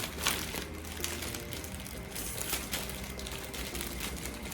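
Plastic snack wrapper rustling and crinkling in short irregular bursts as it is handled, likely a seaweed snack packet being opened.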